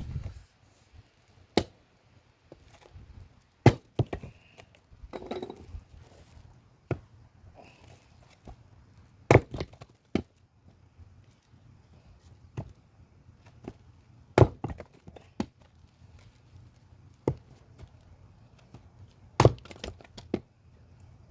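Axe blows splitting firewood: a sharp, loud crack of the blade into a log every few seconds, at an uneven pace, with quieter knocks and handling in the pauses.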